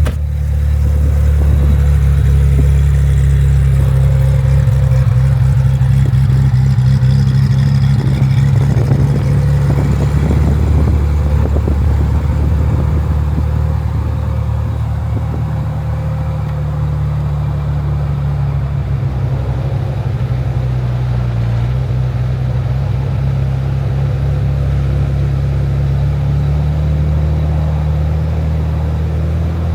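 Ferrari F355's 3.5-litre V8 running steadily at low revs, a deep even note with no revving, with a spell of light rattling about eight to twelve seconds in.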